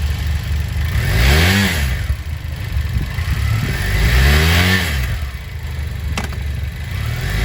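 BMW F700GS's parallel-twin engine idling and revved twice, its pitch climbing and dropping back to idle each time.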